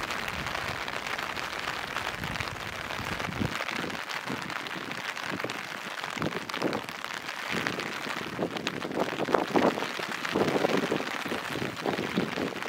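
Steady rain falling, with a constant hiss of drops on wet surfaces. A low rumble under it drops away about three and a half seconds in. In the second half, irregular louder drips and taps come through.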